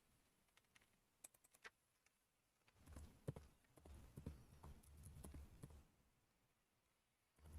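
Faint computer keyboard typing: a few quick key clicks about a second in, then a denser run of keystrokes with dull low knocks from about three to six seconds in.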